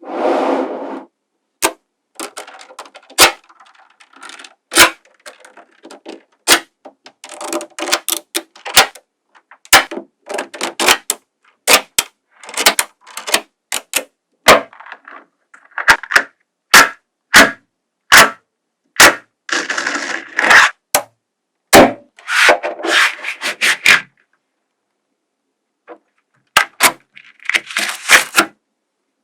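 Small magnetic balls snapping together with sharp single clicks, between stretches of quick clicking and rattling as groups of balls are pushed, rolled and joined. The sound stops for about two seconds near the end, then resumes with a short burst of clicks.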